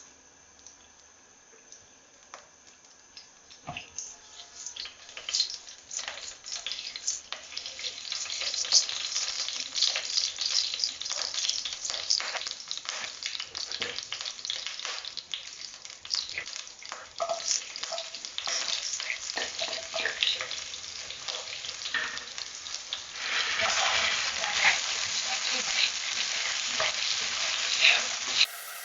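Food frying and sizzling in a hot pan while it is stirred, with scattered crackles and the clicks of a utensil. It starts faintly a few seconds in, grows louder, and swells into a denser sizzle near the end.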